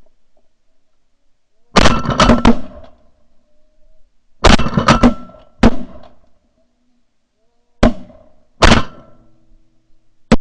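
Several shotguns firing at geese in quick volleys: a burst of about four shots about two seconds in, another of about four a few seconds later, then single shots near the end.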